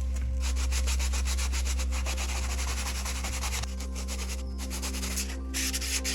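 Quick back-and-forth hand sanding strokes, several a second. They stop a little over halfway through and start again near the end.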